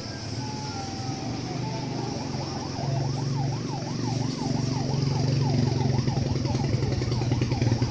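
Electronic siren sweeping up and down in pitch, about two to three sweeps a second, over the steady running of a small engine that grows louder toward the end.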